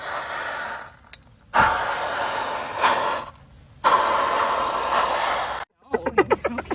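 Three long, breathy hisses, each lasting about a second and a half. Near the end a fast run of short pitched pulses begins, about eight a second.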